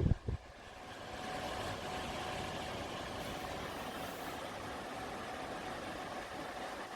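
Orbegozo TW 0800 tower fan running: a steady whir of moving air with a faint hum, building up over about the first second and then holding steady. A brief knock right at the start.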